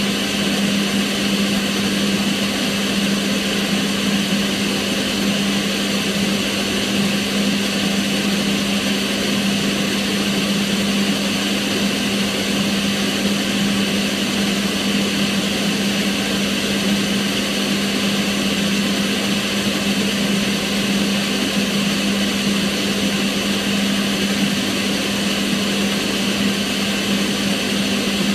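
Kitchen range hood extractor fan running steadily: an even rush of air with a constant hum.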